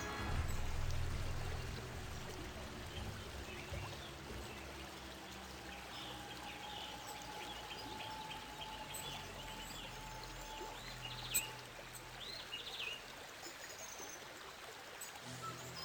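Outdoor woodland ambience: scattered high, short bird chirps over a faint rushing noise. A low rumble on the microphone marks the first couple of seconds, a faint steady hum runs through the middle, and a single sharp click comes about eleven seconds in.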